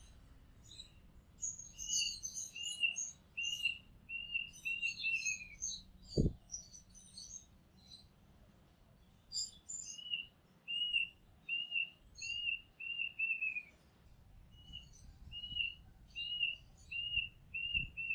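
Oriental magpie-robin singing: runs of short, clear notes repeated at one pitch about twice a second, the last few of each run quicker and dropping, with higher chirping phrases between the runs. A single dull thump about six seconds in.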